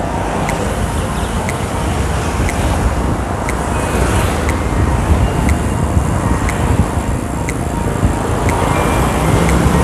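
Steady wind and road noise from a moving motorcycle ride, with background music carrying a regular beat over it.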